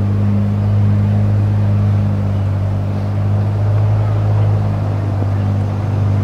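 Tour tram's engine running steadily under load as the tram climbs a long grade, a constant low drone heard from on board.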